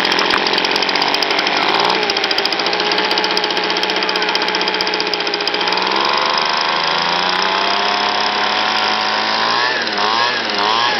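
Small two-stroke engine running steadily at high speed, blowing smoke after a prime-and-start. Its pitch shifts about six seconds in, and near the end it revs up and down in quick wavers.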